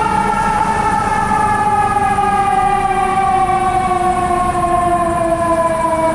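A fire engine's Federal Q mechanical siren winding down, its single wailing tone falling slowly and steadily in pitch, over a low truck rumble.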